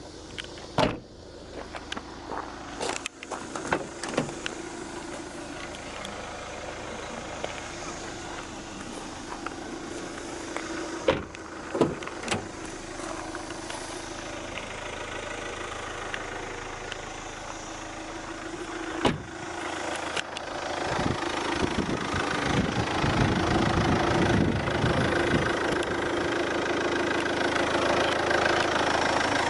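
Sharp clicks and knocks from the GM Daewoo Winstorm, then its engine starts about two-thirds of the way in and runs at idle, growing louder near the end.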